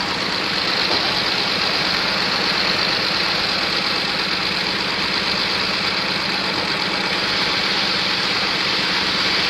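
A boat's engine running steadily, a constant low hum under an even rushing noise.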